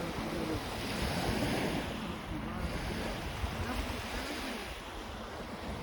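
Small lake waves washing onto the shore, with wind rumbling on the microphone.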